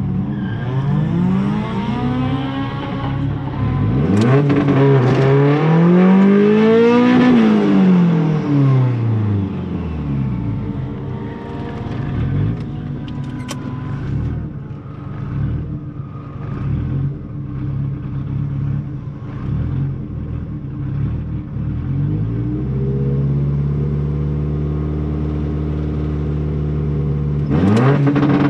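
Turbocharged 1.8T four-cylinder engine of a Mk2 Golf revving up and falling back over the first several seconds. Later it holds a steady note for a few seconds, then climbs sharply in revs near the end.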